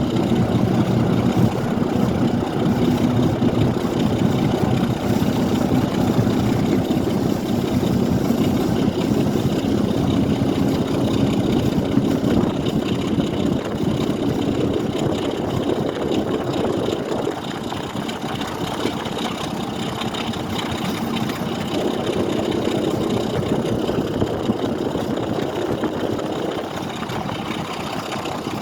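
A train's engine running steadily, a continuous low mechanical hum and rumble that eases off slightly partway through.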